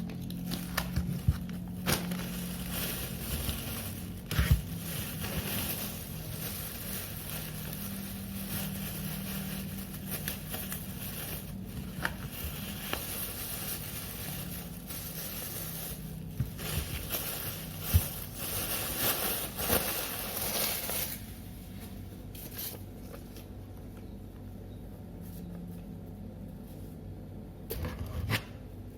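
Household things being handled: rustling, scraping and scattered light knocks, growing quieter about two-thirds of the way through.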